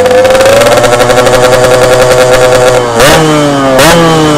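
Yamaha RX-King two-stroke single-cylinder motorcycle running through a 'setengah dewa' aftermarket exhaust, really loud. The engine holds a steady, slowly rising note, then at about three seconds in it is sharply revved twice, the pitch falling away after each blip.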